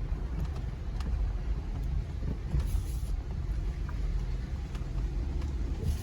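Steady low rumble of the Jeep Gladiator Rubicon's 3.6 Pentastar V6 and drivetrain, heard from inside the cab, with a few light clicks and a short hiss about two and a half seconds in.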